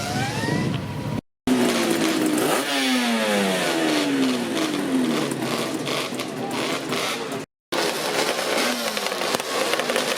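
Two-stroke motorcycle engine revving: the pitch climbs near the start, then a rev falls away over a couple of seconds. The sound cuts out abruptly twice.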